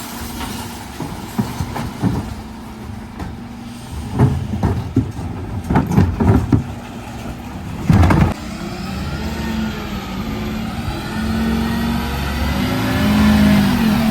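Dennis Elite 6 refuse truck on a recycling collection: recycling is tipped from the bins with a series of knocks and clatters, the loudest a bang about eight seconds in. After that the truck's engine and hydraulics run with a whine that rises and falls.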